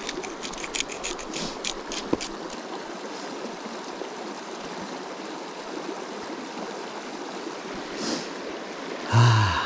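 A river stream flowing steadily. A run of about ten small sharp clicks comes in the first couple of seconds, and a short, low human vocal sound comes near the end.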